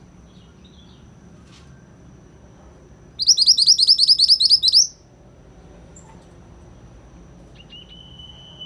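A yellow mantenan songbird singing: a loud, fast trill of about nine sharp notes a second lasting under two seconds, a few seconds in, with a few faint chirps before it. Near the end a thin, steady whistled note begins.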